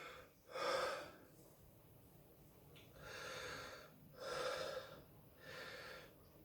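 A man breathing hard, about four slow breaths in and out as he pants against the burn of a dried Carolina Reaper pepper he has just eaten.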